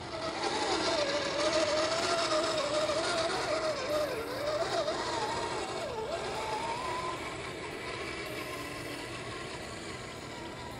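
Redcat Gen8 Scout II RC crawler's electric motor and metal-geared drivetrain whining as it drives. The pitch wavers up and down with the throttle and climbs higher about two thirds of the way in.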